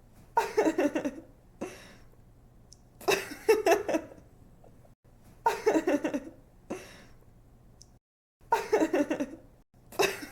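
A young woman giggling in four short bursts, each about a second long, coming about every two and a half to three seconds, with quick pulsing breaths of laughter in each.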